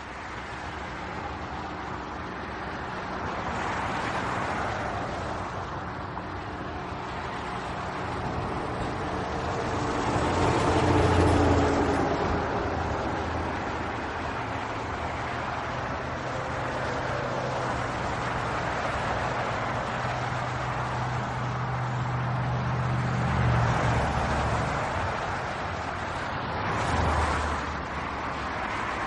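Handheld car vacuum cleaner running steadily, its hum shifting and swelling in loudness a few times as it works.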